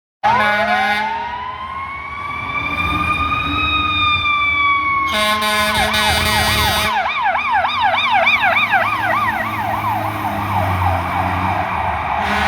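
Fire truck siren, a slow wail rising and then falling. About five seconds in a horn blasts for under two seconds as the siren switches to a fast yelp that fades out, and another horn blast starts near the end, over the low rumble of the apparatus engine.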